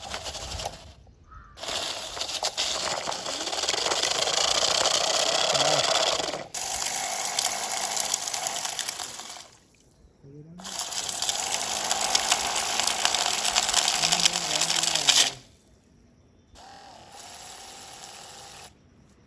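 Water splashing and rushing in two long stretches of several seconds each, both cutting off suddenly, with faint voices underneath.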